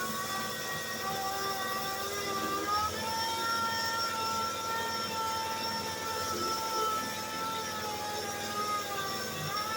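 Electric grinder running steadily with a high whine that dips in pitch as it is pressed against the metal, about two and a half seconds in and again near the end, and picks back up when eased off.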